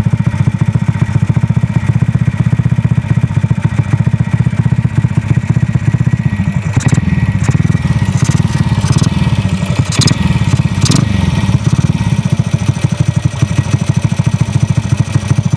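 Aermacchi single-cylinder four-stroke motorcycle engine running steadily with an even firing beat, just started with a newly fitted cylinder head and carburetor. A few sharp knocks come in the middle.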